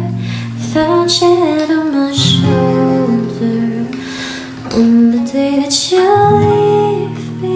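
Music: a woman's voice singing a slow melody over a plucked acoustic guitar.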